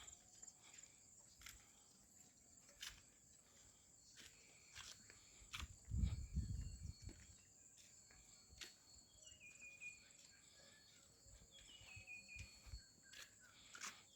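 Faint outdoor ambience: a steady high insect buzz, with scattered sharp clicks and a short low rumble about six seconds in. Near the end come a few short falling chirps.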